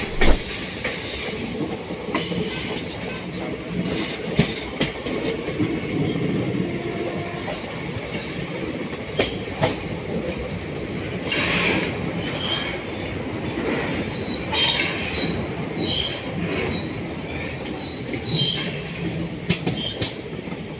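Passenger train running along the rails, heard from on board: a steady rumble with scattered knocks and clicks from the wheels and joints. From about halfway through come short, high wheel squeals.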